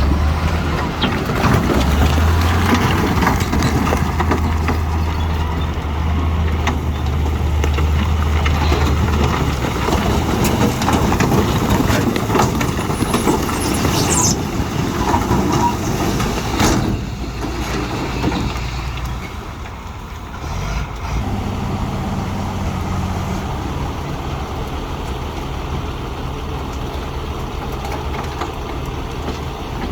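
Heavy earthmoving machinery at work, a diesel engine running with a deep steady drone through the first ten seconds or so. Two sharp knocks come in the middle, and the sound then settles lower and steadier.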